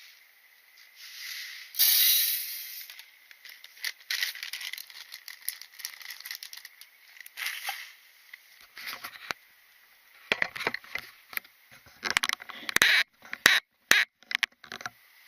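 Rustling and scraping, then irregular clicks and knocks that grow busier and louder in the second half: objects being handled.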